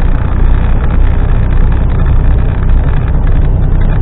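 HGV lorry's diesel engine running under way, with road noise, heard from inside the cab as a steady low drone.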